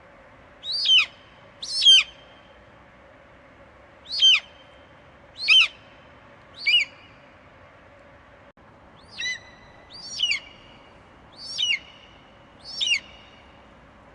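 Eagle screeching: nine short, shrill calls, each falling sharply in pitch, coming roughly one every second or so, in two runs with a pause of a couple of seconds between them.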